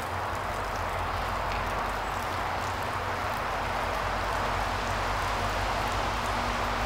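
Distant Union Pacific diesel freight locomotives approaching, a low engine drone under a steady hiss that grows slowly louder.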